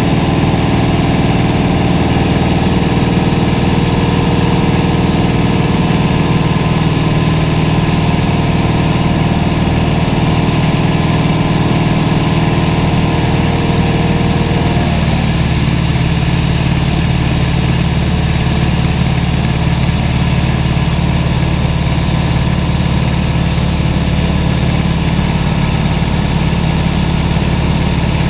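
Aircraft engine and propeller droning steadily, heard from inside the cabin in flight. About halfway through the tone shifts as the engine setting changes.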